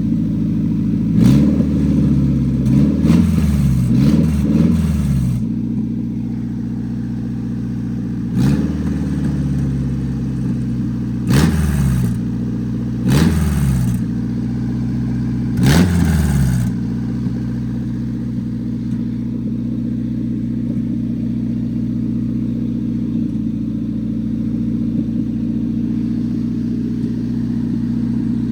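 1993 Nissan 240SX's four-cylinder engine idling, blipped up to a higher rev and back about eight times in the first seventeen seconds, then idling steadily. It runs well with the faulty fuel injector on cylinder 1, which had been misfiring, now replaced.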